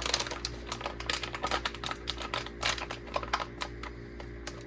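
Southwestern corn and bean vegetable mix poured from its bag into a pot of broth: a dense run of small irregular clicks as the kernels drop in, thinning out about three and a half seconds in, over a steady low hum.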